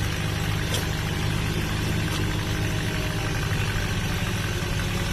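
Engine running steadily at idle: an even low hum with no change in speed.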